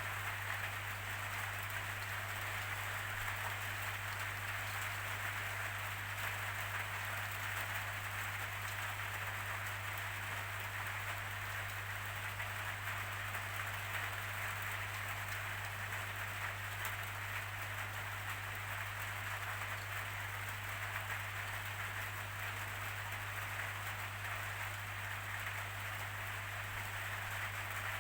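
Steady rainfall, an even hiss of drops that does not let up, with a steady low hum underneath.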